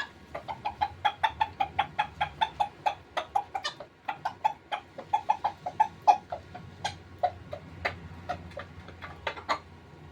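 Rooster feeding: a rapid run of short, sharp sounds, about four a second, that eases near the four-second mark and picks up again in looser groups.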